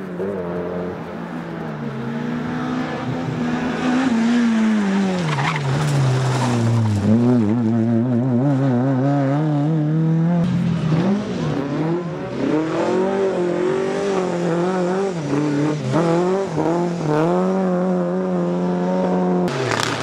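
Rally car engine driven hard on a stage. The revs drop steeply about four seconds in as it slows, then climb and waver up and down through the rest as the car is pushed through the section.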